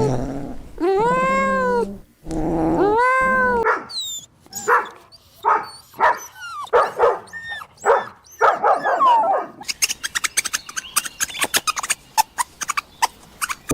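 A cat meowing three times, long meows that rise and fall in pitch. After that comes a run of short, quick high calls, and for the last few seconds a rapid stream of sharp clicking chirps.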